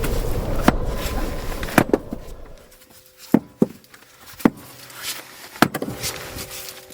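A steady rushing, rumbling noise fades out over the first two and a half seconds, leaving a wood fire crackling with sharp, irregular pops.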